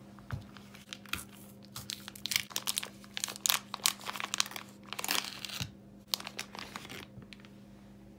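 Crinkling and rustling of material being handled, a rapid run of small crackles that stops about seven seconds in, over a steady low hum.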